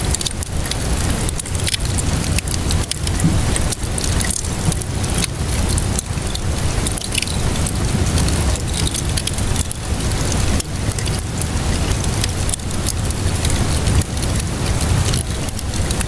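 Wood fire crackling with frequent sharp pops and snaps over a steady hiss of rainfall and a low continuous rumble.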